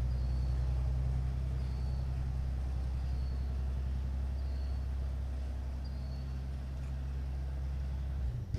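1961 Chevrolet Viking grain truck's engine running at a steady idle, then cutting off abruptly near the end.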